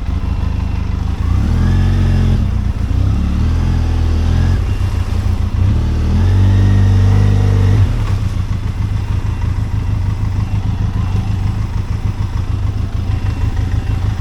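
Benelli TRK 502X's 500 cc parallel-twin engine revving up and holding higher revs for several seconds, then dropping back to idle about eight seconds in.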